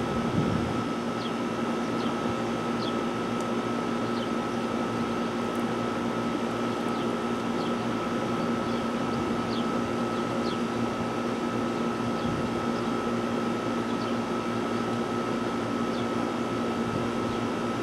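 Steady mechanical hum from an engine or motor, unchanging in pitch throughout, with faint short chirps over it.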